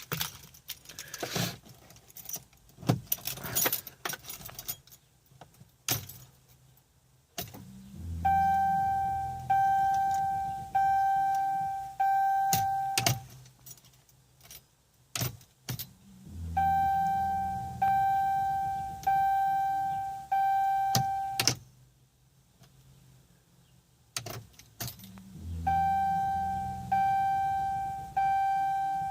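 Keys jangling, then three times over a series of about four electronic warning chimes a little over a second apart from the 2013 Dodge Durango's dashboard. Each chime is a single pitched tone that fades out, and each series opens with a brief low rumble.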